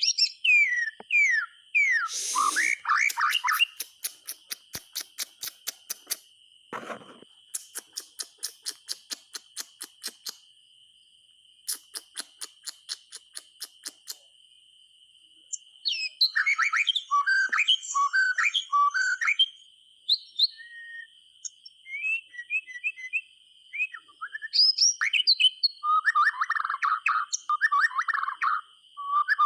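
White-rumped shama (murai batu) singing: quick sweeping whistles, then long runs of rapid dry ticks at about five a second, then varied whistled phrases ending in a series of repeated fuller notes.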